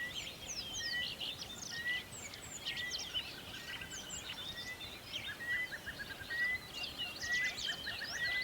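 Several small birds chirping and calling over one another in quick, overlapping notes, with one short high note repeated about once a second.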